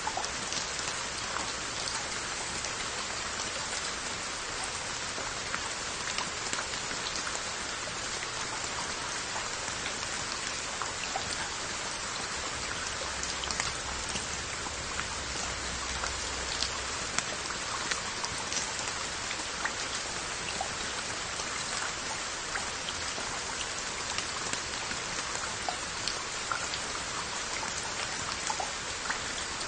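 Steady rain falling on earthenware onggi crocks and their lids: a dense, even hiss with many separate drops tapping here and there.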